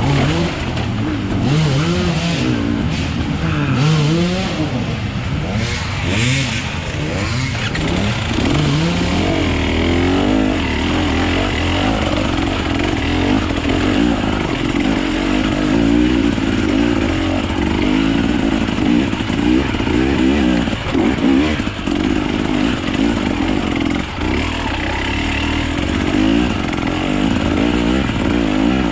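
Off-road enduro motorcycle engine revving up and down for the first ten seconds or so, then running at a steadier pitch.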